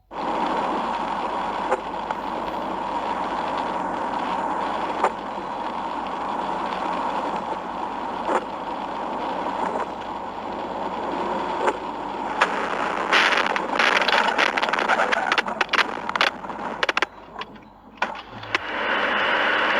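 Steady road and tyre noise from a moving car. About two-thirds in comes a cluster of sharp knocks and clattering, then a brief dip before the road noise returns.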